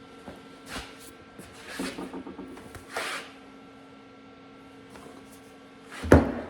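Handling noises in a workshop: a few brief rustles and clatters, then a loud thump about six seconds in, over a steady electrical hum.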